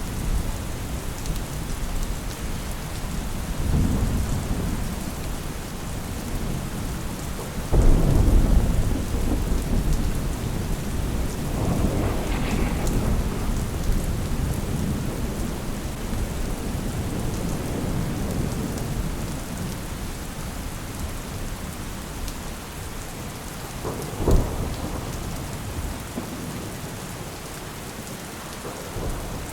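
Steady rain with rolling thunder. A loud thunder roll breaks in suddenly about eight seconds in and rumbles on for several seconds, with softer rolls before and after it, and a short, sharp thunderclap comes about twenty-four seconds in.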